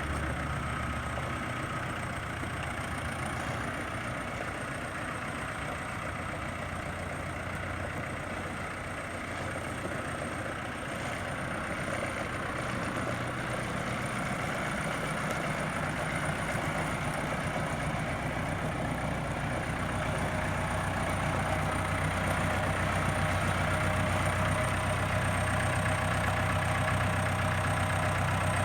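Perkins 4.0 four-cylinder diesel engine of a Case IH CX90 tractor running steadily at idle, growing gradually louder over the second half.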